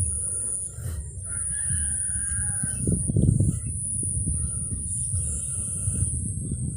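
A bird gives one wavering call lasting about a second, over a steady high-pitched whine and low rumbling on the microphone.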